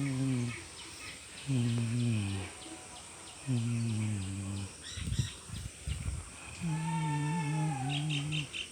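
Deep frog calls at a pond: four low, drawn-out calls of about a second each, each sliding slightly down in pitch, over a fast, high, pulsing chirp from smaller frogs or insects. A brief low rumble comes midway.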